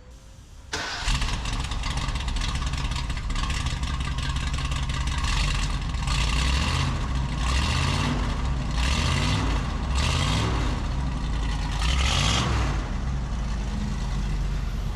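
1975 Ford Bronco engine starting about a second in, then running on its old headers and exhaust and revved repeatedly with blips of the throttle. Its sound is called 'very reasonable' and 'not bad'.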